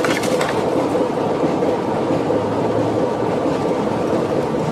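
A heritage train running slowly over the track, a steady rumble of wheels on rails, with a short run of clicks at the start.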